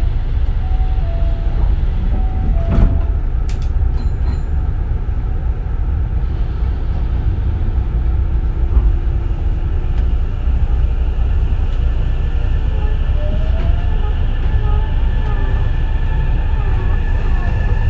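Hankyu 9000 series electric train running, a heavy steady low rumble of wheels and motors. In the second half, motor tones climb in pitch as the train picks up speed.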